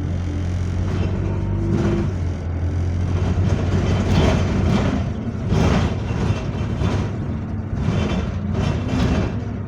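Bus engine running with a steady low hum, overlaid from about two seconds in by uneven rattling and clattering from the bus body and fittings, heard from inside the passenger cabin.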